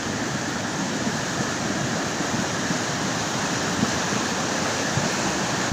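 Steady rush of floodwater in the Kesek river swollen by heavy rain.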